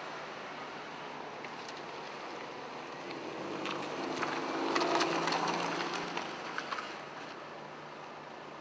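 A vehicle passing by, its noise swelling and fading over about three seconds, with a few sharp clicks at its loudest.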